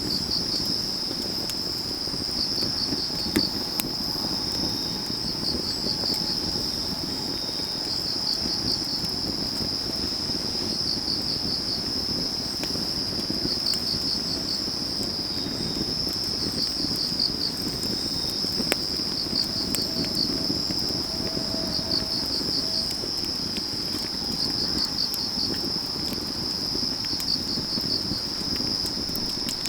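Autumn grass insects trilling steadily and high, while another insect chirps in short pulsed bursts about every three seconds. Underneath, a wood fire crackles, with a few sharp pops.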